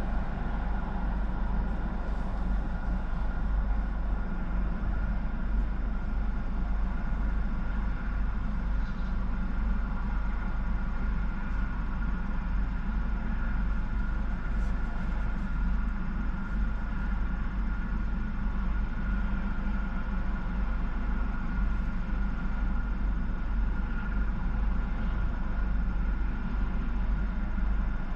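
Steady low rumble of an idling vehicle engine, with a faint steady high whine over it.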